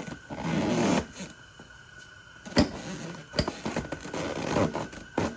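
Scraping and rustling handling noise with two sharp knocks, as a motorcycle seat is worked and pushed into place over the tank mount.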